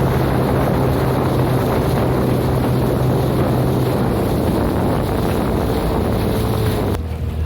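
A small boat's motor running steadily under way, with rushing water and wind on the microphone. About seven seconds in the sound drops abruptly to a quieter, duller hum.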